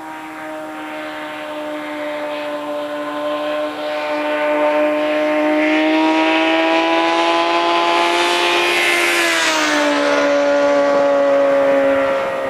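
A 2007 Suzuki GSX-R600's inline-four engine, breathing through an M4 shorty aftermarket exhaust, passing by at steady high revs. The note grows louder as the bike approaches, drops in pitch as it goes past about ten seconds in, and fades away near the end.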